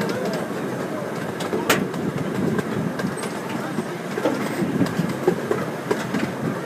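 Train rolling along its track: a steady rumble with scattered wheel clicks and one sharp click a little under two seconds in.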